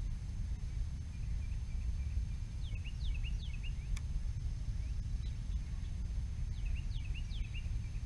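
A small bird calling in two short bouts of quick, downward-slurred chirps over a steady low rumble, with a single sharp click about halfway through.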